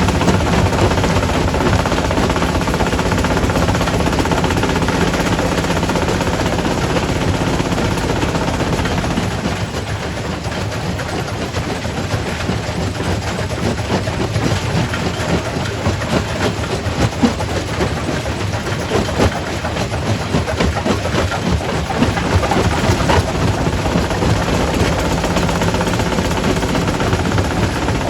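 Quarry primary rock crusher working: a steady machine hum under continual sharp cracks and knocks as rock is broken and clatters through. The hum drops a little about nine seconds in while the cracking goes on.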